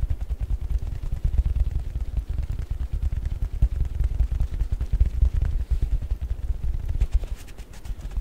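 Fast fingertip tapping on sponges: a dense, rapid run of dull, low thumps.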